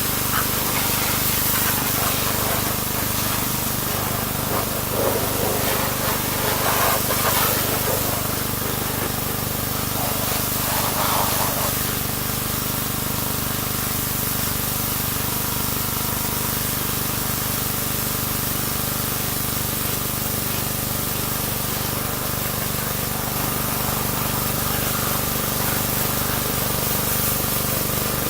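Pressure washer spraying steadily, a hiss over the constant hum of the washer's motor, with a few brief louder stretches in the first half.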